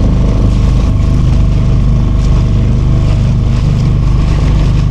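Motorboat engine running steadily, a continuous low drone with no change in speed.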